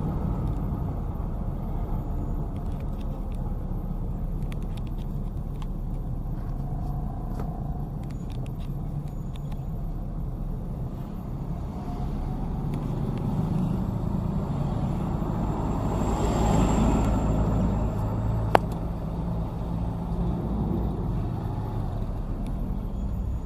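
Steady motor-vehicle engine and road rumble, swelling louder about two-thirds of the way through, with a single sharp click shortly after.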